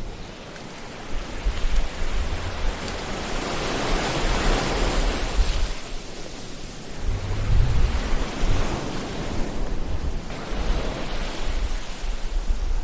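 Ocean surf: waves washing in and drawing back, swelling to a peak about five seconds in and again near eight seconds, with a low rumble between them.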